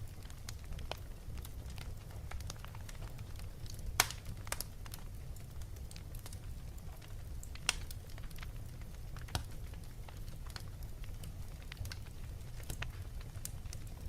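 Fireplace fire crackling, with a steady low rumble and irregular sharp pops. The loudest pops come about four seconds in and near eight seconds.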